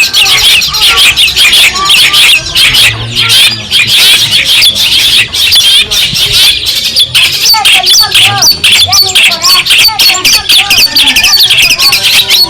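Long-tailed shrike (cendet) singing loudly: a fast, unbroken chatter of scratchy, high notes with occasional lower whistles.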